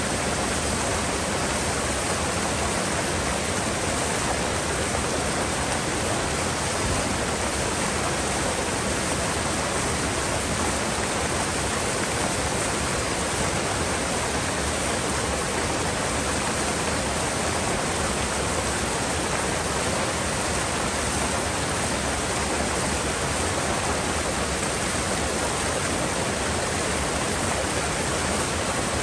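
A mountain river's flowing water rushing steadily, an even, unbroken hiss.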